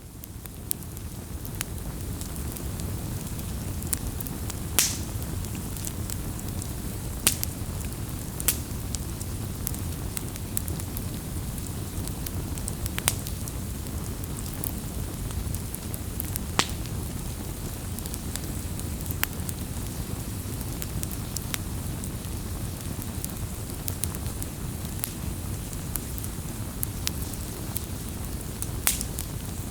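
Wood bonfire burning: a steady low rush of flame with sharp crackles and pops every second or so, a few of them louder. The sound fades in over the first couple of seconds.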